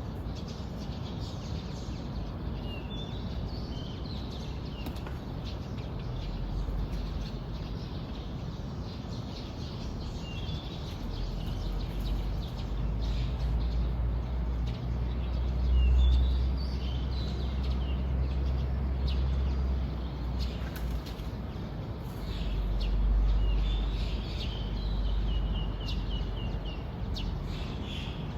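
Small birds chirping in short, scattered phrases, over a low rumble that swells loudest about halfway through and again a little later.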